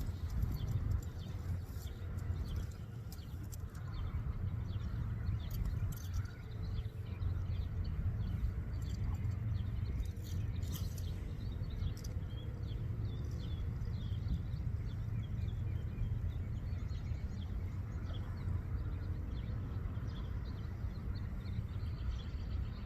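Outdoor pond-side ambience: faint, frequent bird chirps over a steady low rumble, with a few brief clicks and handling noises.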